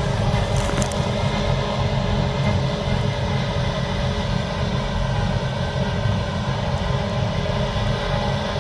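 Heavy harvest machinery running steadily: a deep engine drone with a steady whine above it.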